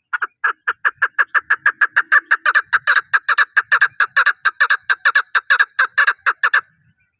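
Chukar partridge calling: a rapid run of repeated short notes, about five a second, that stops suddenly near the end.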